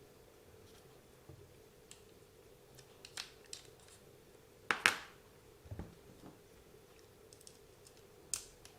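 Scattered small clicks and clinks of tools and small parts being handled during bench repair of an RC buggy. The loudest is a sharp double click about five seconds in, with another click near the end.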